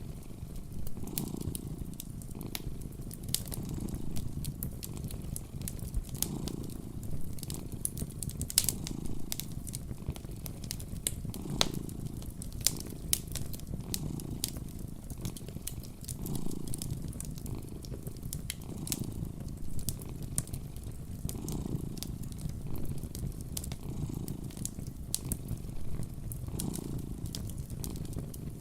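A cat purring close up, a steady low rumble swelling and easing with each breath about every second and a half, over a wood fire crackling with scattered sharp pops.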